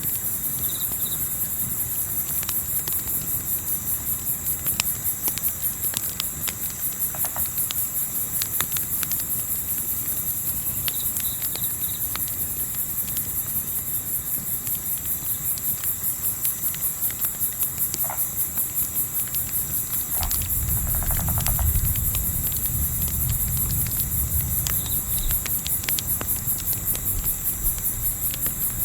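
Crickets chirping in a steady, fast-pulsing chorus, with scattered sharp crackles from a campfire. A low rumble swells about twenty seconds in and fades a few seconds later.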